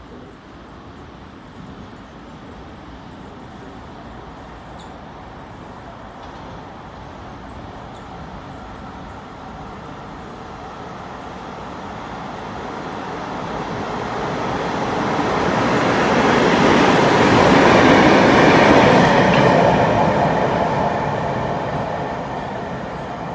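A Taiwan Railways freight train passing through an underground station. Its rumble and wheel noise build slowly, are loudest about three quarters of the way in, then fade as it goes by.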